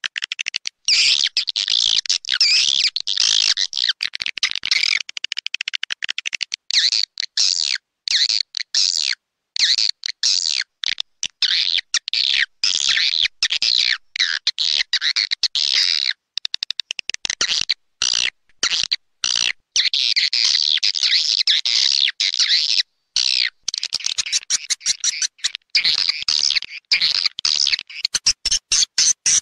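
Swiftlet call (lure) recording: dense twittering and chirping of edible-nest swiftlets, broken by brief silent gaps, turning into a fast even run of pulses near the end. This is the playback used to attract swiftlets to a bird house.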